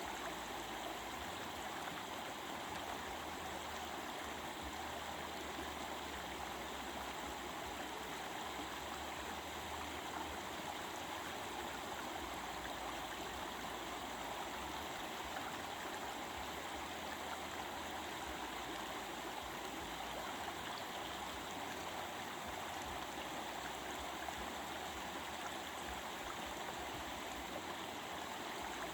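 A stream flowing and babbling steadily over its bed.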